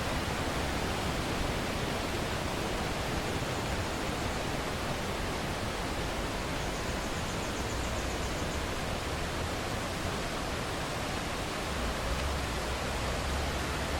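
Waterfall rushing: a steady, even roar of falling water with no break.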